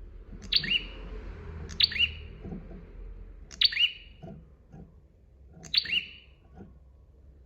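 Prenjak songbird giving four loud, sharp calls, each a quick falling note, spaced about one and a half to two seconds apart, over a faint low rumble.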